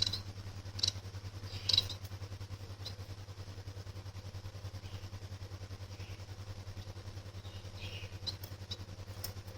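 Short, high chirps from a cage bird, a society finch (Bengalese finch): three in the first two seconds and a few fainter ones near the end, over a steady low hum.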